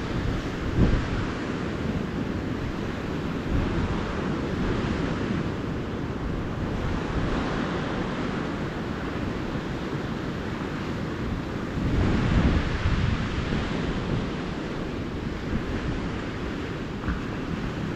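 Calm ocean surf washing onto the beach in a steady hiss, with wind buffeting the microphone in low rumbles, strongest about a second in and again around twelve seconds in.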